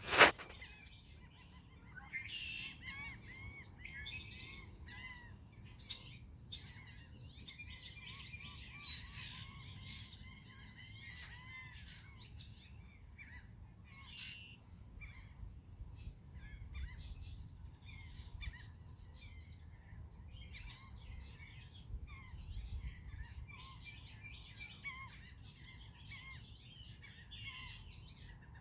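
Red-winged blackbirds calling, with many short chirps and looping whistles overlapping continuously. A sharp knock comes right at the start.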